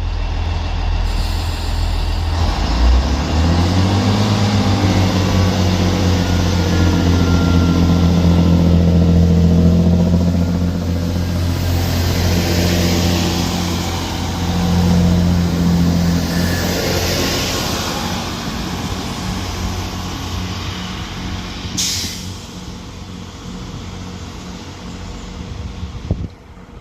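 Great Western Railway Class 165 diesel multiple unit's underfloor diesel engines pulling away from the platform. The engine note steps up about three seconds in, holds steady under power, then fades as the train leaves, with a short sharp hiss near the end.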